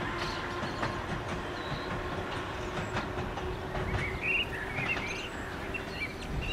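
Island Line Class 484 electric train running, with a steady hum and scattered clicks from the wheels on the rail joints. Birds chirp in the second half.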